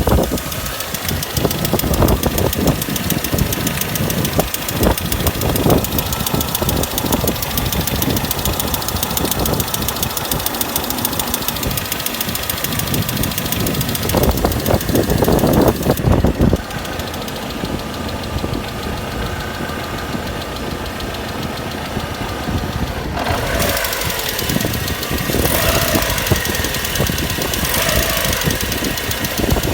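Lada Priora's four-cylinder petrol engine running with a fast, steady knocking that is the unpleasant noise in question. The sound turns duller a little past halfway, then brighter again in the last quarter.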